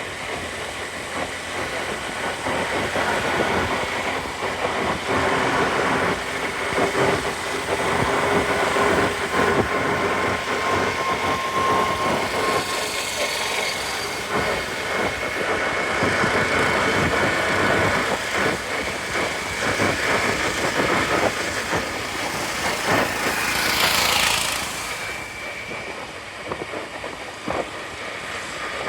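Riding a scooter through city traffic: a steady mix of engine, tyre and traffic noise, with a short loud hiss about 23 seconds in.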